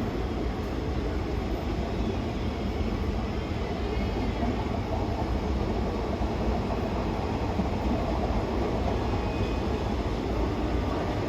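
Passenger train running past, a steady rumble of wheels on rail.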